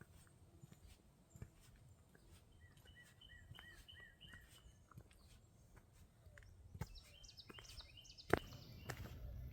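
Small birds chirping, one giving a run of about six short hooked notes at roughly two a second, with more chirps later, over faint footsteps on a trail. A single sharp click near the end, followed by a low rumble.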